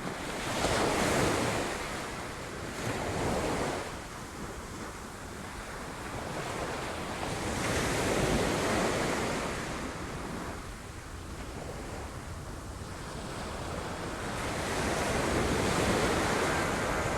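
Sea waves breaking against rocks, in a steady wash that swells into louder surges about a second in, around three seconds, around eight seconds and near the end.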